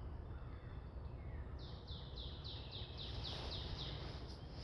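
A songbird singing a fast series of short, high, down-slurred notes, about three a second, starting about one and a half seconds in. A low, steady outdoor rumble runs underneath.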